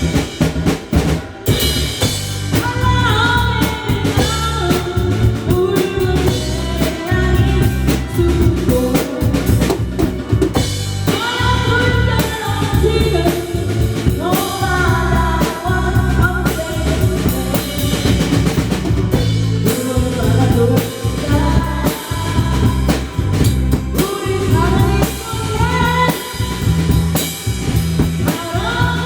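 A drum kit played along to a song with a singer: a steady beat of bass drum, snare and rimshots under a sung melody.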